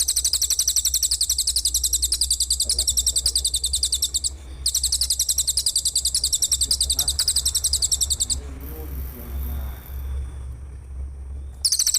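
Rapid, evenly pulsed high-pitched trill in long unbroken runs: it breaks briefly about four seconds in, stops about eight seconds in and starts again near the end. While it is stopped, faint voices and a steady low hum are heard.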